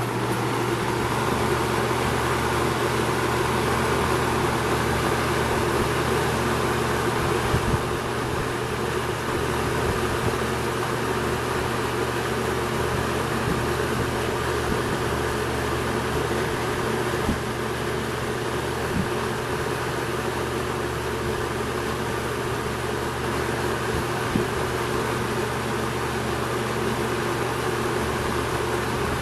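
Toastmaster 20-inch box fan (model 4437) running, a steady rush of air over a low motor hum. It grows louder over the first few seconds, then holds steady, with a few faint ticks.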